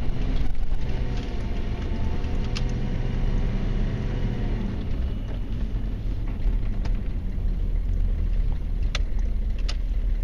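1994 Chevy Silverado K1500's 6.5 L turbo-diesel V8 running steadily as the truck drives, its note easing lower over the first few seconds. A few sharp clicks come through, one early and two near the end.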